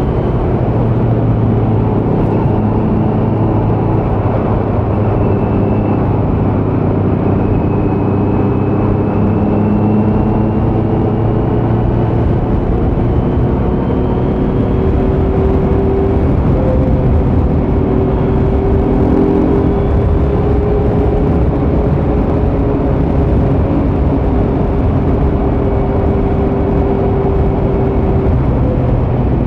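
Kawasaki Z900's 948 cc inline-four running through a Leo Vince muffler with no dB killer, holding a fairly steady engine speed with its pitch drifting gently up and down.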